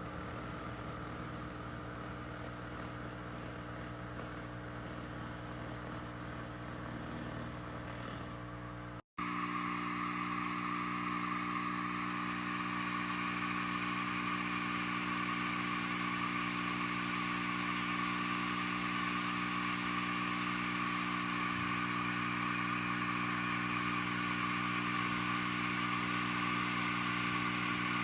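SFX 2000 handheld laser rust remover running: a steady buzzing hum with hiss. It cuts out briefly about nine seconds in and comes back louder.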